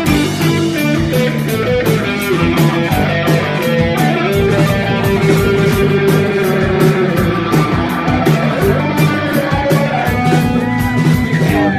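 Instrumental rock music led by guitar, with bass and a steady drum beat; bending guitar notes near the end.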